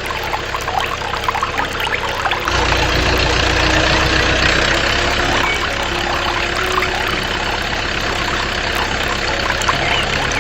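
Water pouring and splashing steadily, joined about two and a half seconds in by a louder low hum like a small pump motor running.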